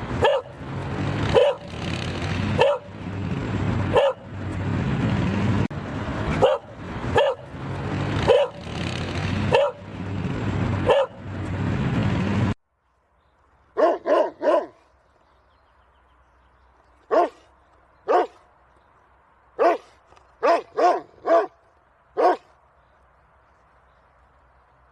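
Cocker spaniel barking. For about the first half it barks roughly once a second over a loud, noisy background. Then the sound cuts abruptly to a quiet recording with sharper, separate barks, some in quick runs of two or three.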